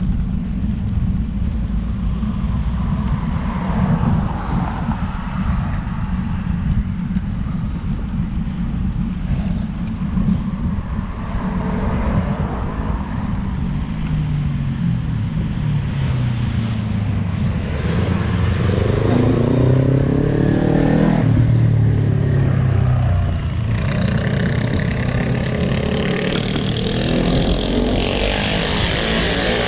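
Steady low wind rumble on the microphone of a moving bicycle. Through the middle, a passing motor vehicle's engine sounds with its pitch dropping and then climbing, and a louder rushing hiss builds near the end.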